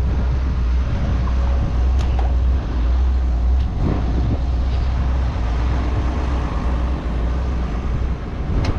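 Heavy diesel engine of a Komatsu machine running steadily, a deep rumble with a few sharp metallic clicks and knocks.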